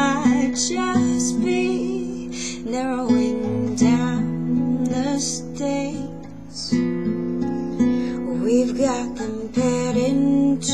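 Music: an acoustic guitar strummed in a slow, simple pattern, with a voice singing a wavering melody over it.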